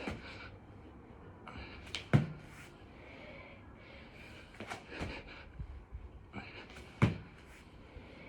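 A person breathing hard during six-count burpees, with a thud against the floor about every two and a half seconds.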